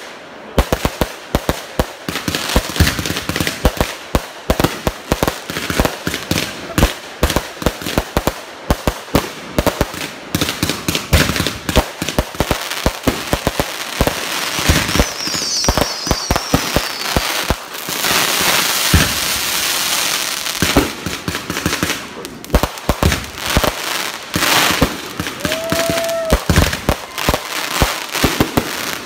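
Aerial fireworks going off in rapid succession: a dense run of pops, bangs and crackling stars, thickest about two-thirds of the way through.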